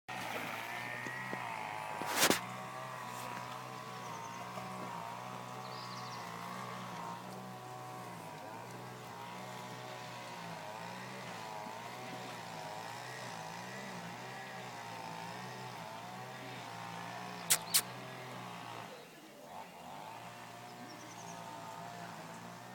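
A motor running steadily with a hum whose pitch wavers slightly up and down, broken by a sharp click about two seconds in and a quick double click near the end.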